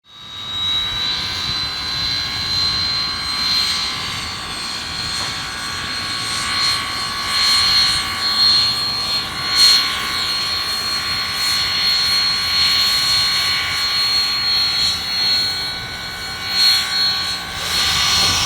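Steam train sound: a sustained high-pitched squeal with several steady tones beneath it and uneven rushing noise.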